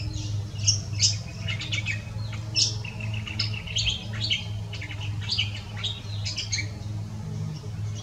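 Birds chirping and twittering in quick, irregular short notes, over a steady low hum.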